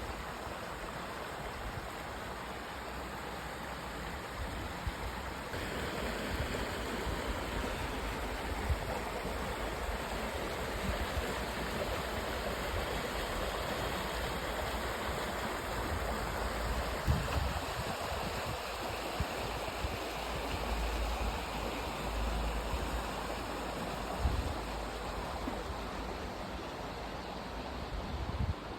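Mountain stream rushing steadily below, a continuous even wash of water. A few brief low rumbles break in now and then.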